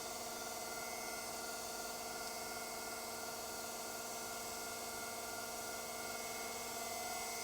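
Hydraulic testing machine running with a steady, unchanging hum over a hiss.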